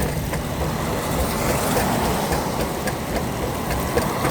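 Power wheelchair rolling over rough, wet pavement: a steady rumble from its small wheels and drive, with a few light knocks.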